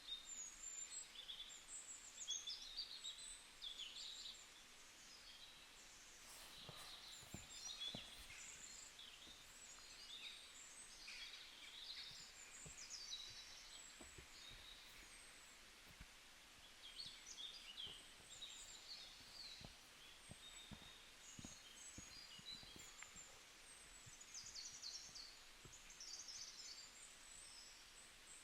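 Small birds chirping and twittering faintly, many short high calls overlapping throughout, with a few soft knocks here and there.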